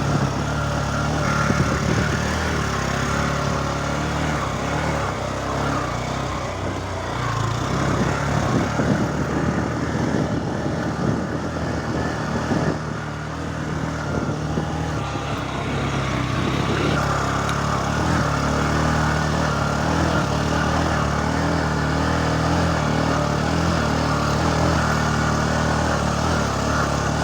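Motorcycle engine running steadily while riding, with a broad rush of wind and road noise over it; the engine note shifts a little in pitch now and then.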